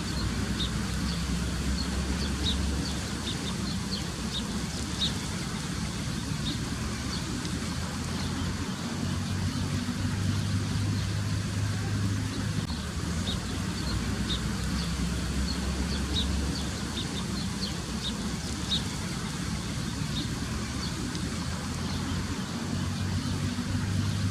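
Steady low engine rumble of a motor vehicle, with short high bird chirps in two clusters, in the first few seconds and again in the middle.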